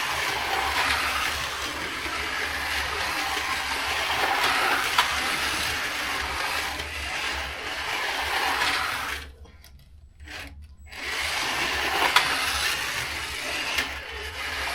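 Carrera GO!!! slot cars running on the plastic track: small electric motors whirring and wheels and guides rattling, with scattered clicks. The noise drops out for about a second and a half roughly nine seconds in, then picks up again.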